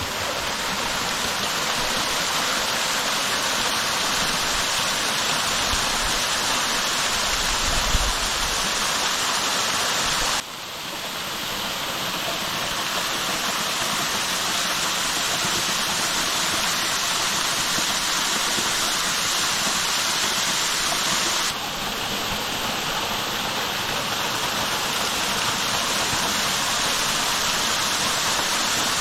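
Waterfall on a mountain stream: a steady, loud rush of falling and splashing water. The rush drops and changes character abruptly about ten seconds in, and shifts again about twenty-one seconds in.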